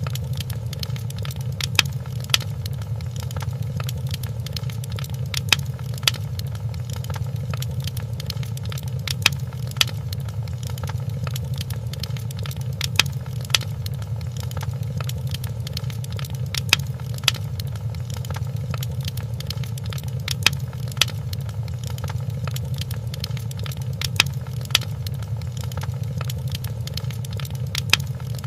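Wood fire crackling in a fireplace: a steady low rumble with sharp pops and snaps at irregular intervals.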